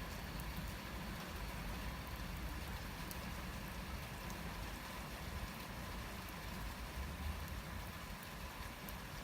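Steady rain falling, with scattered fine drop ticks and a low rumble underneath.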